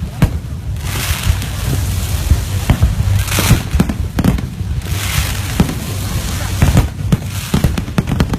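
Aerial fireworks display: repeated shell bursts banging in quick, irregular succession over a constant low rumble, with a few short stretches of hiss.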